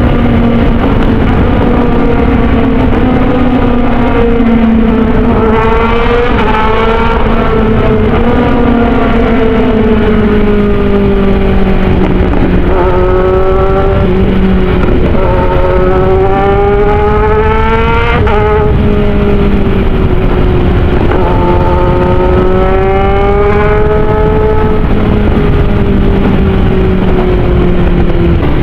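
Kawasaki Ninja 1000's inline-four engine running hard. Its pitch climbs in several pulls and drops back between them, once sharply, as the rider shifts up with the quick shifter.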